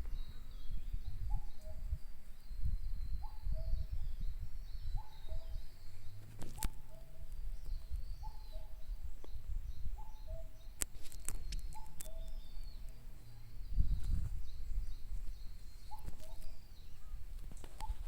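Wild forest birds: one bird repeats a low two-note call, the second note lower, about every second and a half to two seconds, while another bird sings a higher, continuous warbling song. A low rumble and a few sharp clicks sit underneath.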